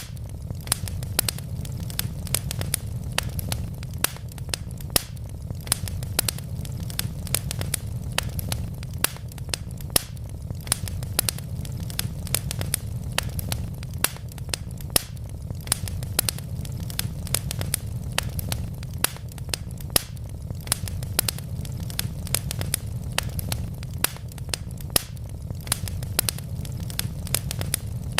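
Wood fire of burning logs crackling: a steady low rumble of the flames with frequent sharp pops and snaps at irregular intervals.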